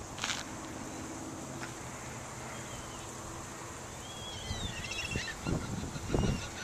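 Birds chirping a few short high calls in the second half, over a steady low hum. A sharp click comes near the start, and low rumbling thumps near the end are the loudest sounds.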